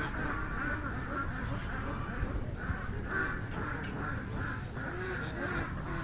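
A flock of ducks and geese calling over one another, a steady run of short repeated quacks and honks.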